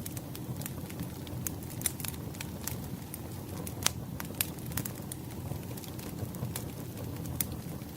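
Wood fire burning, with frequent irregular sharp crackles and pops over a low steady rumble of the flames; one louder pop about four seconds in.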